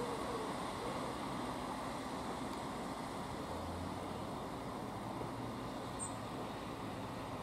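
Two-car diesel multiple unit running slowly through the station, its engines a steady rumble; a low steady hum joins about halfway through.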